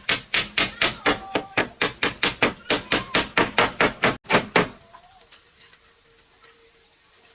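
Rapid, evenly spaced blows of a hand tool on wood, about four a second, stopping abruptly after about four and a half seconds.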